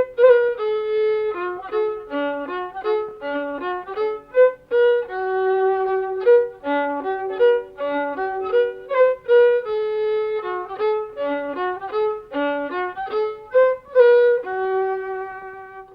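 Background music: a solo violin melody of quick and held notes, with no drums or bass, fading out near the end.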